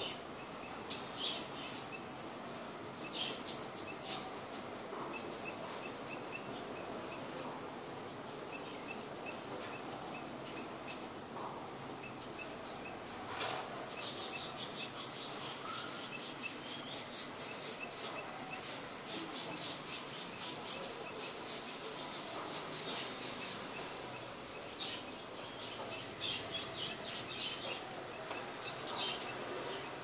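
Small birds chirping: short, high calls every second or two over a steady background hiss. From about 14 s to 24 s a fast, high buzzing trill runs under the chirps.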